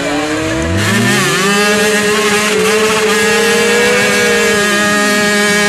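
Motorcycle engines revving. One rises in pitch about a second in and then holds a steady high note, while another falls in pitch near the end as it passes.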